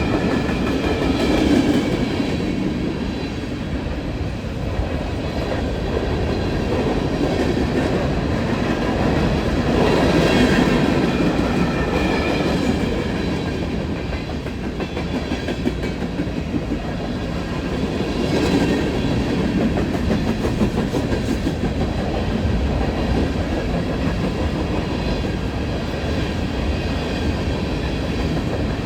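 Empty coal train cars rolling past at speed: a steady rumble of steel wheels on rail with the clickety-clack of wheels over rail joints, swelling and easing slightly.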